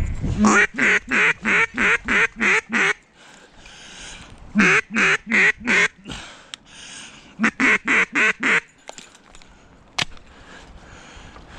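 Mallard-type quacking in three quick runs of about five to seven quacks each, with short pauses between the runs.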